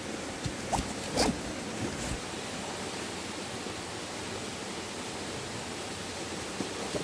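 Steady rush of river water, with a few short clicks and rustles in the first two seconds.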